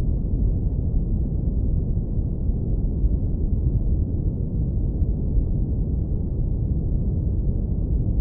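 Deep brown noise, filtered to leave only the low end: a steady, even rumble with nothing in the upper range.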